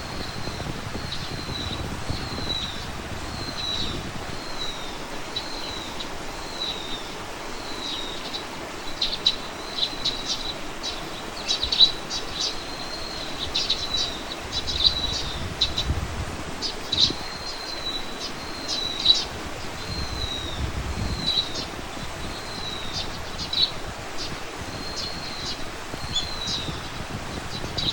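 A songbird repeats a short downward-sliding chirp about every two-thirds of a second. Through the middle it is joined by clusters of quicker, sharper chirps, all over a low background rumble.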